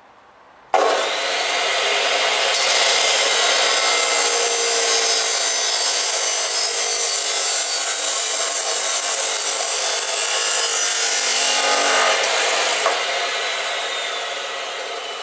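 Electric abrasive-disc grinder working steel exhaust tubing. It starts suddenly under load, runs loud and steady for about twelve seconds, then winds down with a falling whine.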